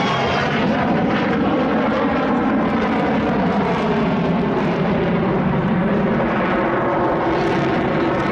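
Aircraft engine noise running steadily and loudly, a dense stack of steady engine tones over a rushing noise.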